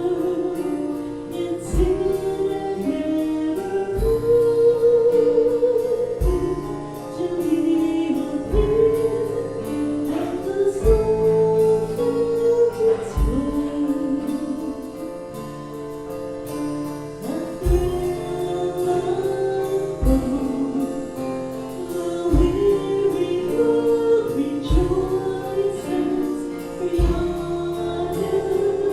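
A worship song: a solo voice singing a slow melody over sustained instrumental accompaniment, with a deep bass note roughly every two seconds.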